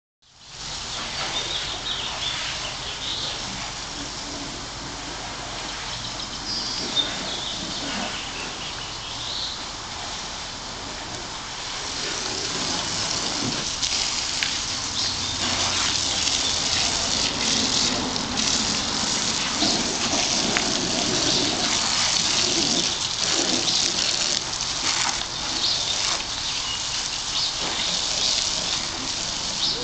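Water spraying and splattering onto a car during washing, a steady rain-like hiss that grows louder about twelve seconds in.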